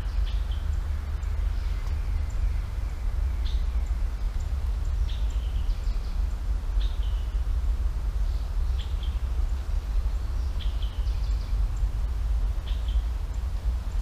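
A bird repeating a short call about every two seconds, each a brief note that drops in pitch, over a steady low rumble.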